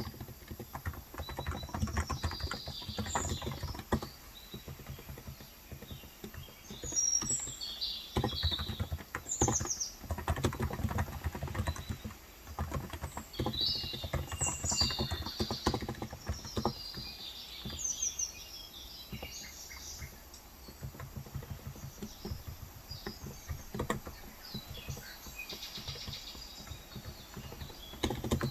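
Typing on a Cox Endeavor tenkeyless keyboard with 35 g electro-capacitive switches: runs of fast keystrokes with short pauses. Small birds chirp outside several times through it.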